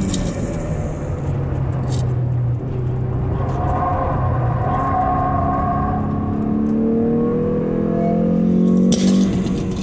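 Mazda 323F BG GT's four-cylinder engine heard from inside the cabin under track driving: the revs fall at the start, hold lower for a few seconds, then climb steadily before falling again with a short click near the end.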